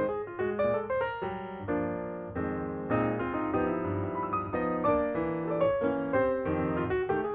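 Background piano music: a run of single notes, then held chords in the middle, then quicker notes again.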